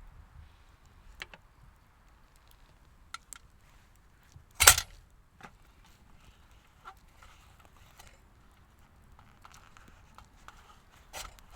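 Sparse small clicks and knocks, with one loud sharp knock a little before halfway and a short cluster of clicks near the end.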